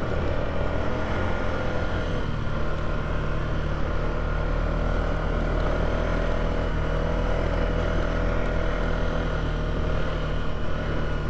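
Polaris ATV engine running at a steady speed while riding a dirt trail, with a steady whine over the low engine note.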